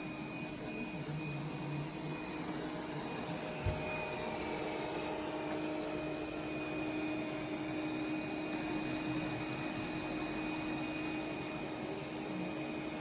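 iRobot Roomba 104 robot vacuum running, a steady whirring of its suction fan and brushes with a faint steady hum, and a single low knock about four seconds in.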